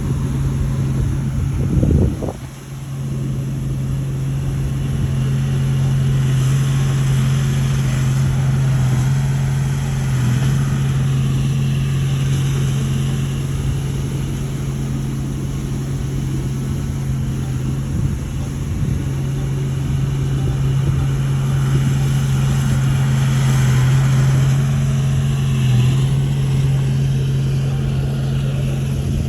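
Shantui bulldozer's diesel engine running steadily at an even pitch, with one brief loud thump about two seconds in.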